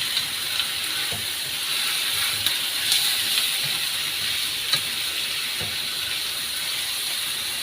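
Chicken pieces frying in hot oil in a pan: a steady sizzling hiss with a few small sharp pops or clicks.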